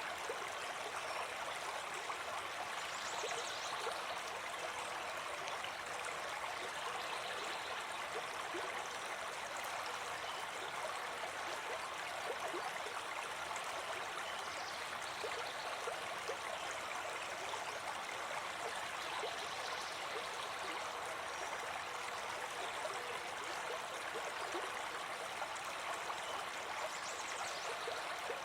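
Brook babbling: a steady, even rush of flowing water with constant small bubbling and gurgling.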